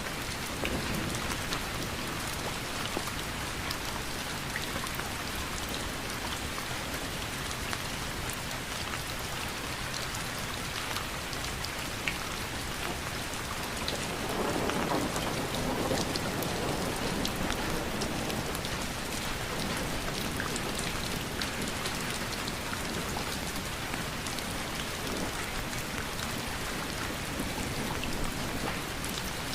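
Steady rain falling, with individual drops ticking through the hiss. About halfway through it swells louder for a few seconds before settling back.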